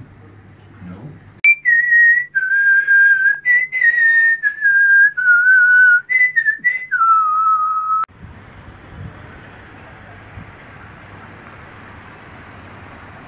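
A person whistling a slow tune, about eight held notes in a single clear tone, stepping down overall in pitch, for about seven seconds. It breaks off suddenly and steady low background noise follows.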